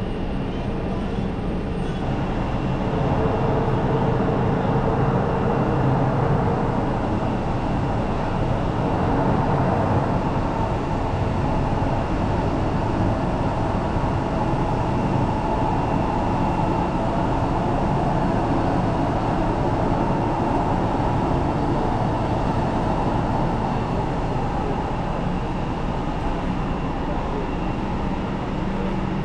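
Jet airliner engines running with a steady rumble and a high whine, growing louder about three seconds in and then holding even.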